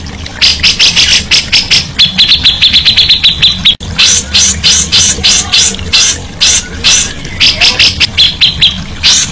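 Songbird singing a loud, rapid string of sharp repeated notes, about six a second, breaking into faster high trills about two seconds in and again near the end. The song cuts off abruptly for an instant just before four seconds in.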